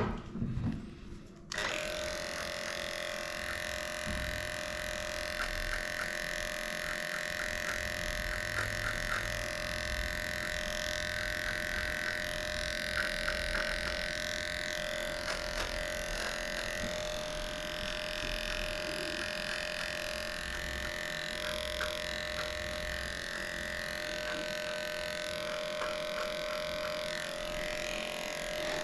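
Electric dog-grooming clipper switching on about a second and a half in and running steadily with a constant whine, shaving through a matted coat, with faint small ticks over it.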